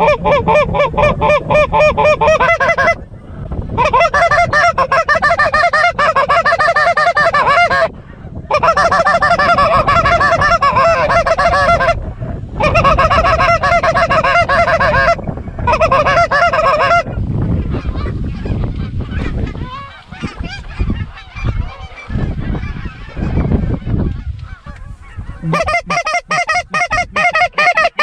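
Canada goose calling: rapid, evenly repeated clucks and honks in loud runs of a few seconds with short breaks, then a fainter, more jumbled stretch of honking before another loud run near the end.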